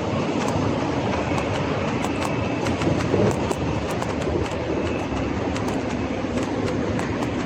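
Scott Scale Gravel 10 bike rolling over a rough street surface: a steady tyre rumble with frequent small clicks and rattles from the bike.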